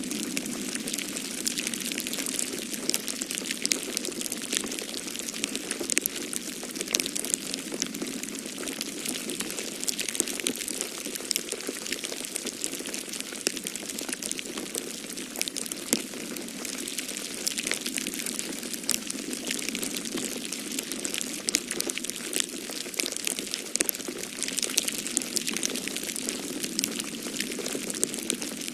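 Wood fire crackling in a fireplace: many small, irregular pops and snaps over a steady hiss, with a steady low whoosh of wind from a snowstorm beneath it.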